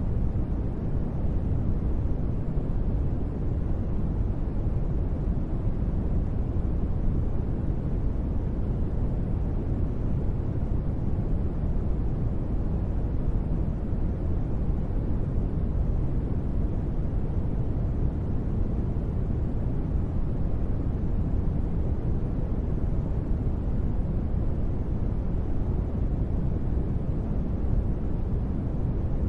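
Steady, unchanging deep rumbling noise used as a space-ambience sleep sound, heavy in the bass and fading toward the treble, with no tones or changes.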